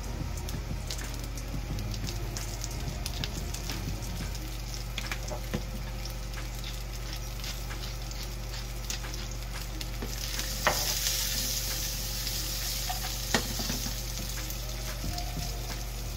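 Small whole tri-colour carrots sizzling in hot oil in a frying pan, with a steady crackle of small pops. The sizzle swells for a few seconds past the middle, with a couple of sharper clicks.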